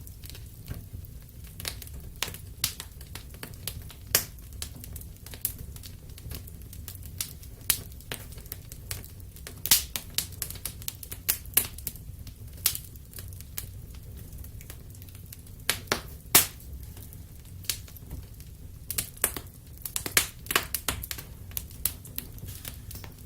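Wood fire in a fireplace crackling: irregular sharp pops and snaps, several a second at times, over a low steady rumble.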